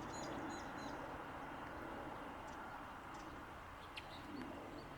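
A few faint, short, high bird chirps in the first second, over a steady background hum.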